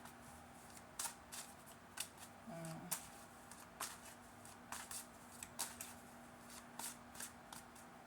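A deck of tarot cards being shuffled and handled: a series of short, crisp card snaps, about one or two a second, over a faint steady hum.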